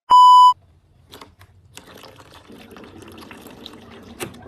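A short, loud electronic beep lasting about half a second, then a much quieter steady hiss with scattered light clicks.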